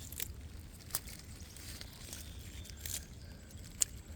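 Faint plastic rustling and crinkling with a few sharp clicks, the loudest near the end, over a low steady rumble.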